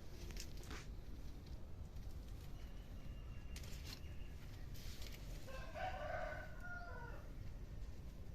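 A rooster crowing once, about a second and a half long, starting roughly two-thirds of the way in, with a few short rustles or clicks before it.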